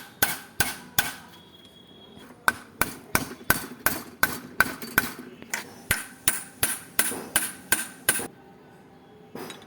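Hammer blows on metal with a ringing note, on a motorcycle rear shock absorber being repaired: three blows, a short pause, then a steady run of about three blows a second that stops near the end.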